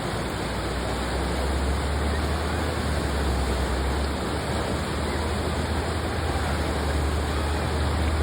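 Whitewater river rapids rushing steadily, a continuous roar of churning water with a deep rumble underneath.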